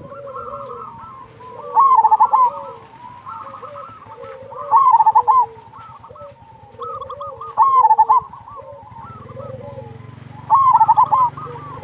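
Zebra doves cooing: a loud phrase of quick rolling coos repeats about every three seconds, four times, with softer, lower cooing in between. Underneath runs a low steady rush of river water.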